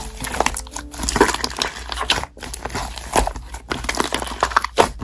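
Slime being squeezed and poked by hand, making an irregular run of sticky crackles, clicks and pops.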